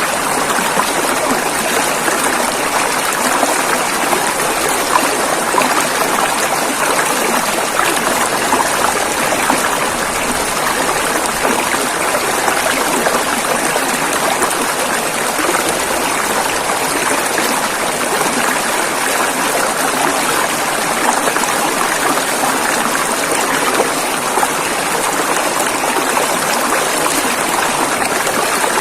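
River water rushing and flowing over rocks, a steady even rush with a fine splashing texture and little deep rumble.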